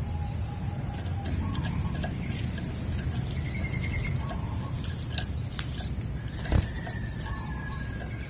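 Prinia (prenjak) calling: short, high, arched notes in quick groups of two or three, repeated a few times. Behind it runs a steady high insect-like whine and a low rumble, and a sharp click comes about six and a half seconds in.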